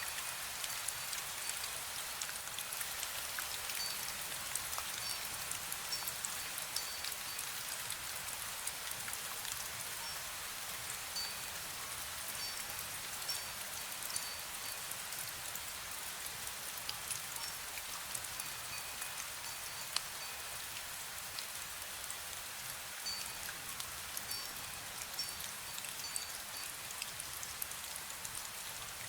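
Steady light rain, with many fine drops ticking on surfaces. Now and then a faint, high wind-bell tone sounds briefly.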